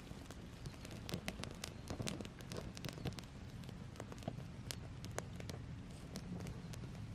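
Wood campfire crackling, with irregular sharp pops and snaps over a low steady rush of flame.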